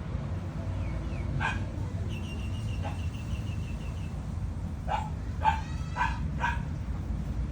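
Kitten mewing in short, high calls, several times, most of them in a quick run near the end, over a low steady rumble.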